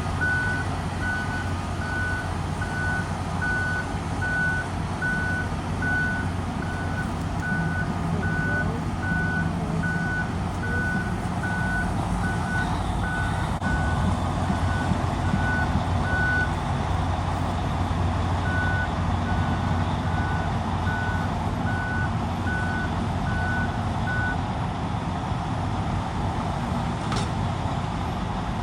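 Backup alarm on heavy equipment beeping steadily at an even pace while its diesel engine runs. The beeping stops about halfway, starts again a couple of seconds later, then stops near the end as the engine keeps running.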